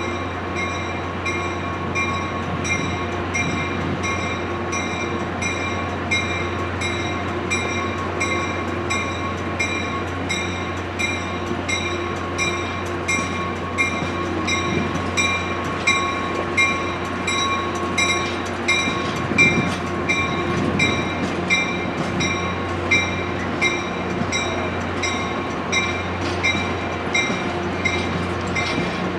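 Caltrain commuter train of bilevel coaches rolling slowly past, with a bell ringing steadily about twice a second over a low, steady engine hum. Wheels knock over rail joints around twenty seconds in.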